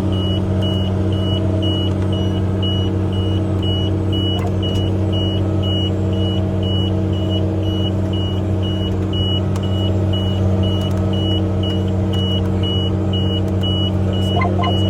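Case 385 tractor's diesel engine running steadily, heard from inside the cab, with a fast, even electronic beeper going about four times a second.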